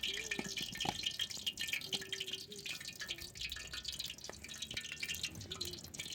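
Fish frying in hot oil in a pan, the oil sizzling with a dense, irregular crackle.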